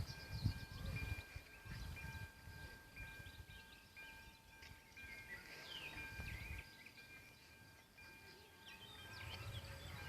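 Small birds chirping, with a faint steady whine on several pitches that drops out now and then.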